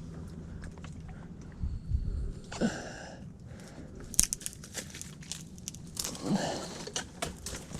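Mangrove branches and leaves crackling and snapping as someone pushes through them, with many scattered sharp snaps and the loudest a little after four seconds in.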